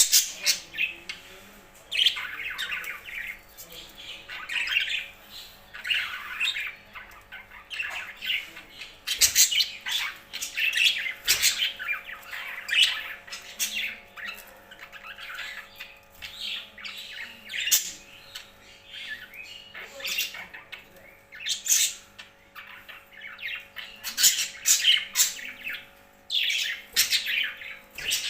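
Several pet birds squawking and chirping, harsh calls repeating every second or so throughout, mixed with sharp high chirps. A faint steady hum runs underneath.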